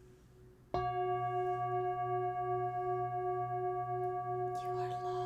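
A singing bowl struck about three-quarters of a second in, then ringing on steadily with several overtones and a slow pulsing wobble in its main tone.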